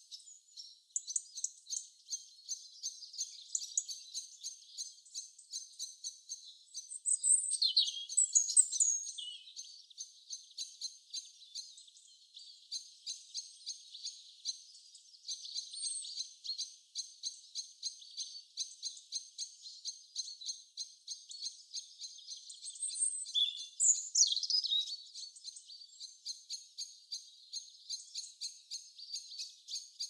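Small birds chirping: a steady run of quick, high-pitched chirps at a few a second, with louder bursts of falling calls twice.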